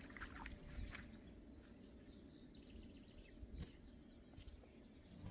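Near silence: faint bird chirps over a low steady background rumble.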